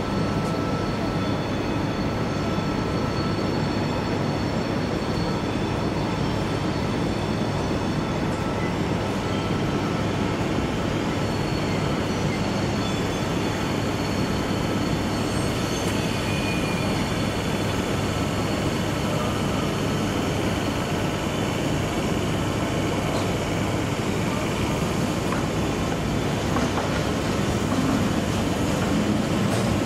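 Train running, a steady noise with a few steady tones over it.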